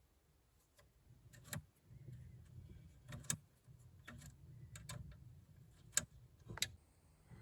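An Allen key working the two small hot-end screws on a Bambu P1S 3D printer: faint, scattered metal clicks and ticks, with a few sharper clicks, over quiet handling rustle.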